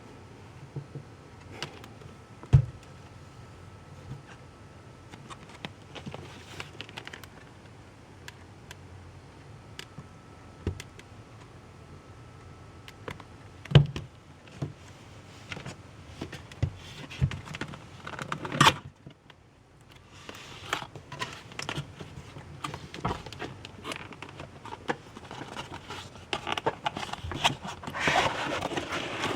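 A model-train set's box and packaging being handled: scattered taps and clicks, with a sharp knock about two and a half seconds in and another about fourteen seconds in, then denser rustling near the end.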